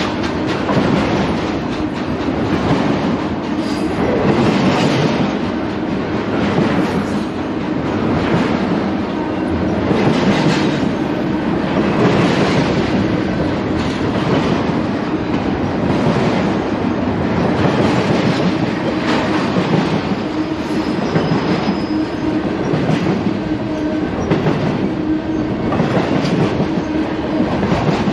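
BNSF intermodal freight train's double-stack container and trailer cars rolling past below, with the wheels clattering over the rail joints in a steady, repeating rhythm.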